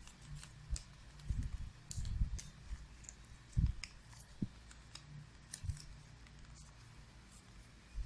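A sheet of origami paper being folded and creased by hand: scattered crisp crinkles and rustles, with a few dull low bumps as it is handled.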